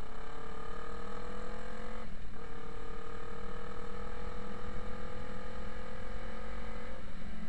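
Motorcycle engine pulling under way. Its note rises, breaks at a gear change about two seconds in, then holds nearly steady and climbs slowly until another break near the end. Underneath is a steady low rumble.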